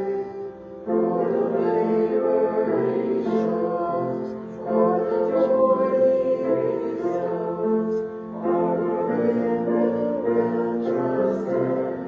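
Congregation singing a hymn with piano accompaniment, with brief pauses between sung phrases.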